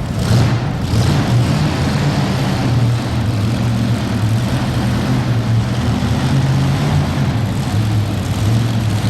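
Modified pulling tractor engine running steadily with a deep, even drone, only slight rises and dips in level.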